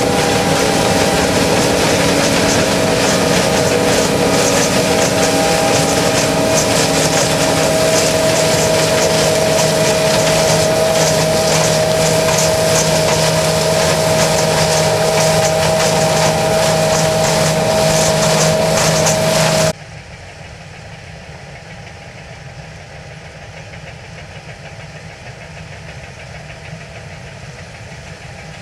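John Deere S660i combine harvester running steadily under harvest load, a loud engine and threshing drone with a steady whine over it. About two-thirds of the way through the sound drops suddenly to a much quieter, duller running noise.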